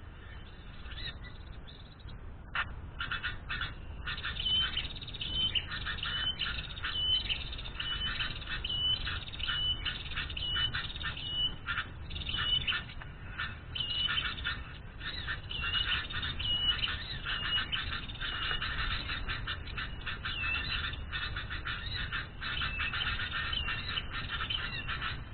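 Small birds calling: a short high note repeated over and over, among quick, dense chattering that starts about two and a half seconds in.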